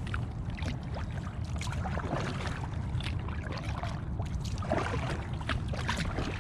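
Kayak paddle strokes in calm water: irregular splashing and dripping as the blades dip and lift, over a steady low rumble.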